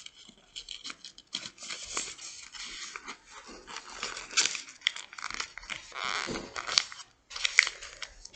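A sheet of paper being folded and creased by hand: irregular rustling and crinkling with short, sharp crackles.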